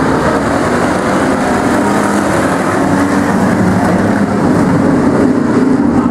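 A pack of demo race trucks running at full throttle together as the race gets under way, a dense wall of engine noise that grows a little louder near the end.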